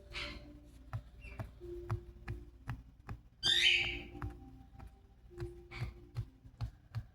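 A parrot gives two short, harsh squawks, a brief one right at the start and a louder one about three and a half seconds in. Under them runs soft background music with a steady ticking beat.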